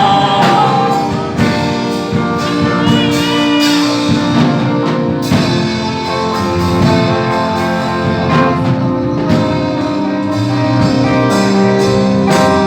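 Instrumental interlude of a live gospel worship band: guitar, keyboard and drum kit playing steadily without singing.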